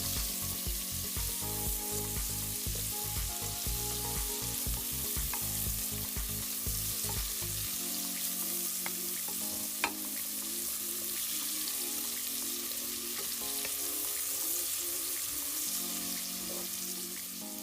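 Onions frying in olive oil in a cast iron skillet: a steady sizzle with some stirring, and one sharp tap about ten seconds in.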